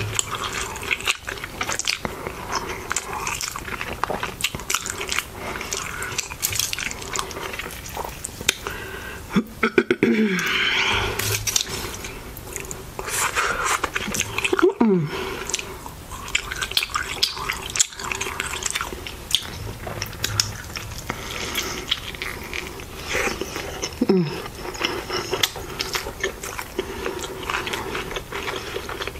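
Close-miked chewing and wet mouth sounds of a person eating a burrito, bites and chews continuing throughout, with a few short falling hums.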